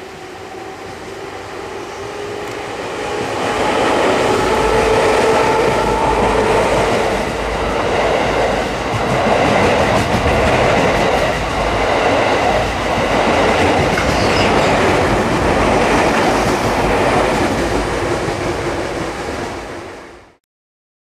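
JR East 215 series double-decker electric train approaching and running past on the rails. The noise swells over the first few seconds, then the wheels clatter rhythmically over the rail joints as the cars go by, until the sound cuts off abruptly near the end.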